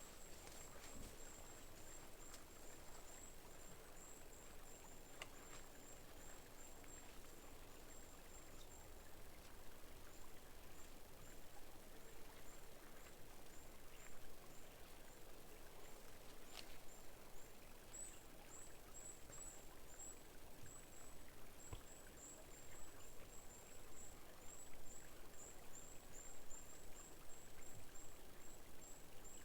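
A small bird giving a long series of very high, thin calls, several a second, thinning out midway and coming thick again later, with a few faint snaps behind.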